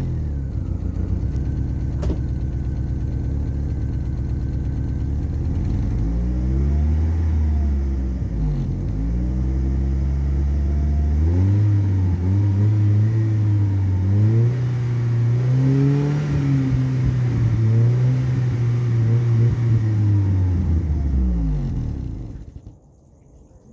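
Opel car engine and exhaust idling, then revved several times and held at raised revs with small swells, before dropping back and being switched off near the end.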